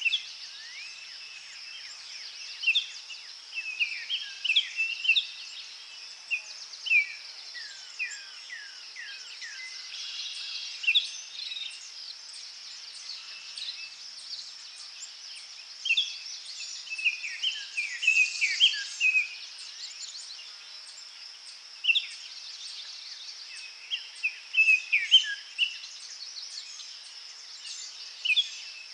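Forest birds singing in many short, quick chirps and downward-sliding notes, in bursts of song, over a steady high-pitched insect drone.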